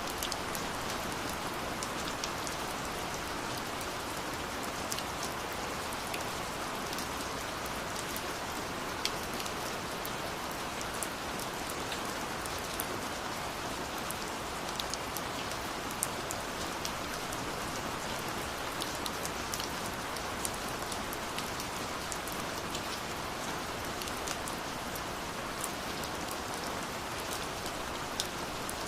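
Steady rush of a waterfall mixed with a wood fire crackling, with frequent irregular small pops and snaps over the even hiss of the water.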